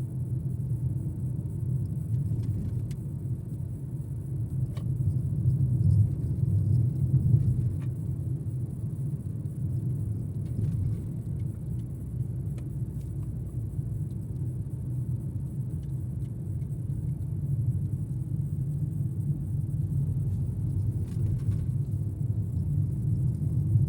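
Steady low rumble of a car heard from inside the cabin, swelling slightly a few seconds in, with a few faint clicks.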